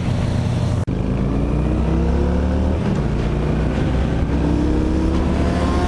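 Motorcycle engine accelerating through the gears: the pitch climbs steadily, dips at a shift about a second in, climbs again, then drops at another shift near three seconds and climbs once more.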